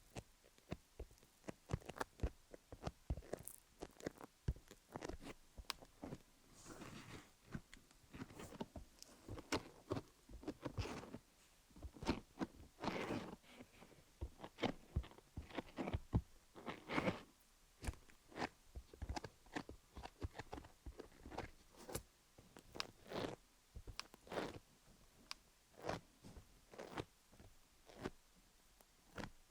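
Sticky sounds of Vaseline being worked over a rhinestone-covered dummy-head microphone: irregular tacky clicks and smacks in quick succession.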